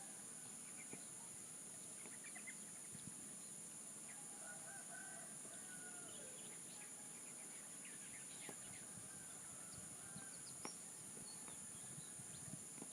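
A rooster crows once, faintly, about four seconds in: one drawn-out call that drops at the end. A steady high-pitched insect drone and scattered short bird chirps run underneath.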